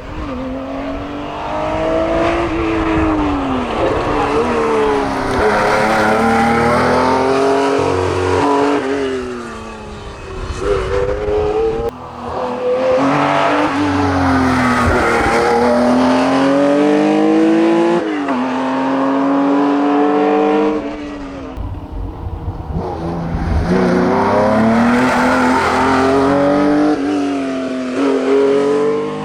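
Porsche 911 SC's air-cooled flat-six race engine at full throttle, its note repeatedly climbing and dropping through gear changes and braking. There are three spells of running, with brief drops in level about twelve and twenty-two seconds in.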